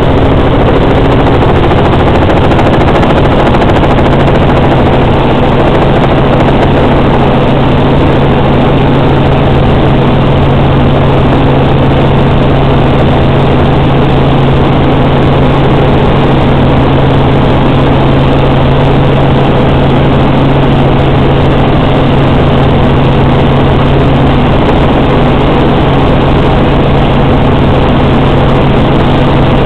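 Robinson R44 Raven I helicopter in flight, its six-cylinder piston engine and rotors running in a loud, steady drone with an even low hum.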